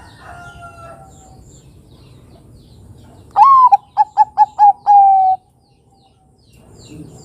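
Bangkok-type zebra dove (perkutut) cooing one loud song phrase about halfway in: a long opening note, a quick run of about five short notes, then a long held final note. Faint bird calls sound in the background before it.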